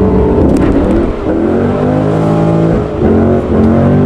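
Holden VE Commodore's V8 engine heard from inside the cabin, accelerating hard from the line. Its pitch climbs and drops back about a second in and again near three seconds as gears are changed.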